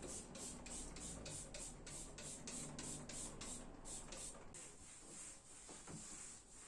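Rapid rhythmic scrubbing, about four or five strokes a second, stopping about four and a half seconds in.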